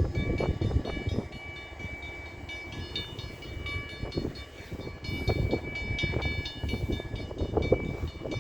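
Stopped CN freight train at a road crossing: the locomotive's low rumble rises and falls, with a steady high ringing tone over it.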